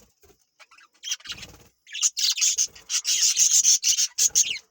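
Parrots squawking: harsh, screechy calls in rapid chopped bursts, a short burst about a second in, then a longer run from about two seconds in until just before the end.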